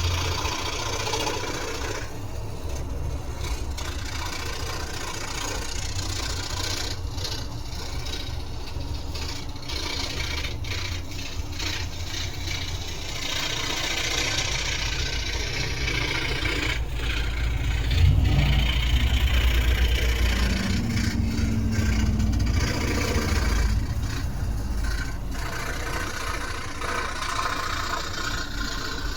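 Electric workshop machine running steadily with a low hum, getting louder about two-thirds of the way through.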